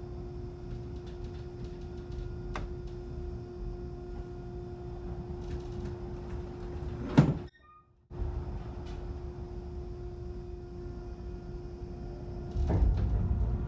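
Steady hum of a ferry's machinery heard inside a cabin, with a low rumble beneath. A single loud knock about seven seconds in, and the low rumble swells near the end.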